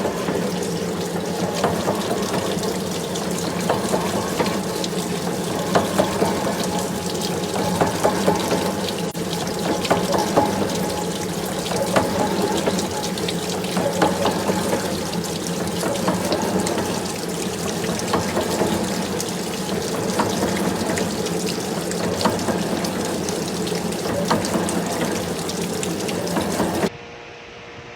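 Metal-cutting machine tool running and cutting, a steady mechanical noise with a low hum and frequent small sharp clicks. It cuts off suddenly near the end, leaving a much quieter steady hum.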